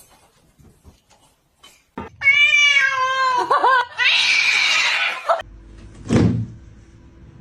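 A cat gives a long, wavering, pitched meow about two seconds in, then a harsh noisy stretch, and a short cry near the end.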